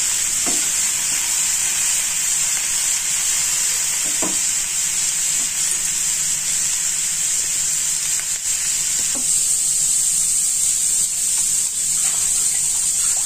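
Diced beetroot frying in a nonstick pan, giving a steady sizzling hiss. It is being cooked with almost no oil.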